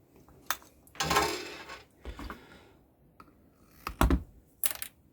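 Clicks and short clatters of small hand tools and components being handled on a workbench while new parts are fitted to a loudspeaker crossover board. There is a rattling clatter about a second in and a cluster of sharp clicks around four seconds in.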